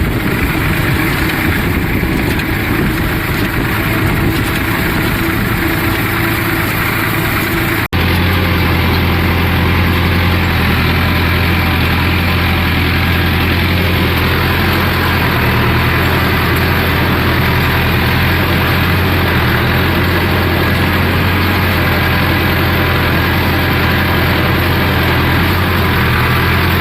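Tractor engine running steadily under load while pulling a land leveller across the field. About eight seconds in the sound cuts abruptly and resumes as a deeper, steadier engine hum.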